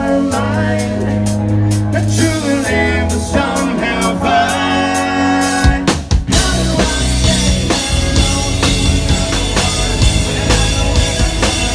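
Rock band playing live: held bass and guitar notes with a sparse beat, then about six seconds in the full band kicks in with driving drums and cymbals.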